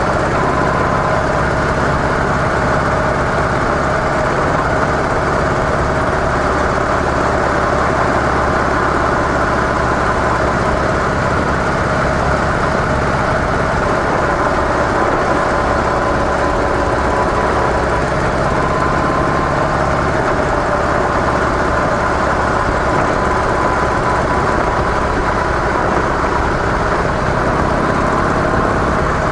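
Harley-Davidson CVO Softail V-twin engine running steadily through its stock mufflers, with an even rush of noise beneath it.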